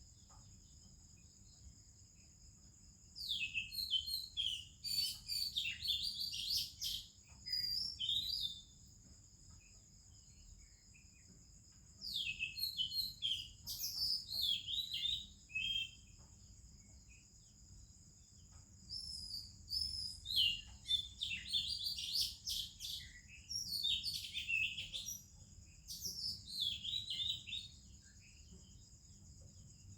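Oriental magpie-robin singing: three bouts of rapid, varied whistles and warbles separated by pauses of a few seconds, over a steady high-pitched whine.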